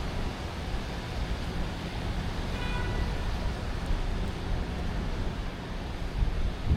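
Steady night-time city ambience: a wash of distant traffic noise with a low rumble. A brief high pitched tone sounds about two and a half seconds in.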